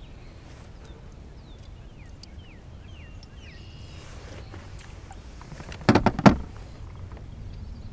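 A quick cluster of loud knocks against a canoe hull about six seconds in, over a low steady outdoor background with a few faint short chirps in the first half.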